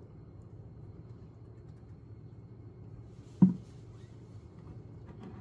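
A single sharp knock about three and a half seconds in, over a low steady hum.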